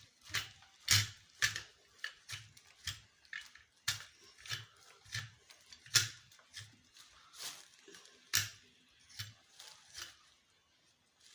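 Repeated sharp clicks, each with a dull knock, about two a second and thinning out near the end: a hand tool working a screw or bolt while a ceiling fan's fittings are tightened.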